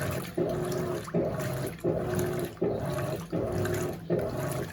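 Electrolux LAC16 top-loading washing machine agitating a full load at high water level. Its motor, a 1/4 hp unit from an LT13B in place of the original 1/3 hp, hums under sloshing water. The agitator reverses direction with a brief break about every three-quarters of a second, an agitation the owner finds a little weaker because of the smaller motor.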